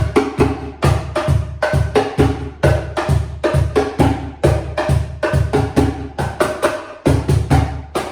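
Hand-played bongo cajon and cajon in a steady groove: deep bass thumps alternating with sharper, higher slaps that ring with clear pitches.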